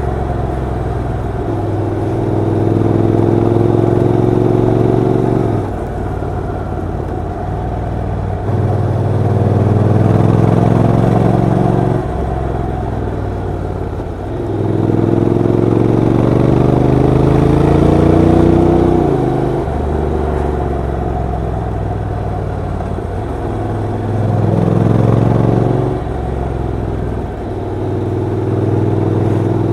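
Honda NC750X DCT's parallel-twin engine pulling through the gears while riding. The pitch climbs in several surges, each ending in a sudden drop at a gear change, and the engine eases off between them.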